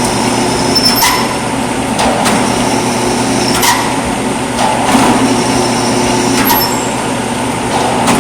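Sharp metallic strikes about every second and a half, six in all, each leaving a brief high ring, over a steady mechanical hum.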